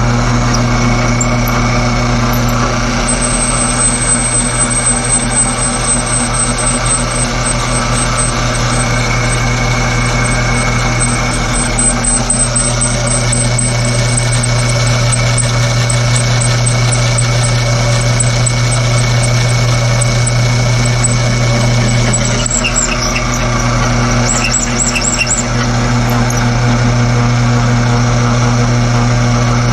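Electric drilling machine running steadily under load, its large bit boring out a hole, with a strong motor hum and a thin high squeal of cutting that comes and goes. The cutting eases briefly a little past twenty seconds, with a few light ticks, then resumes.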